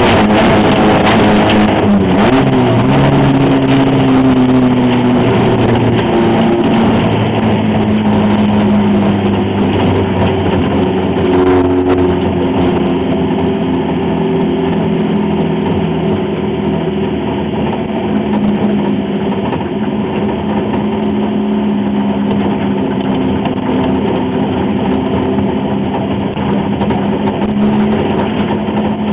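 Autocross car's engine heard from inside the cabin, running hard with its pitch rising and falling as it revs up and down through the gears on a dirt track. A few sharp clicks stand out in the first several seconds.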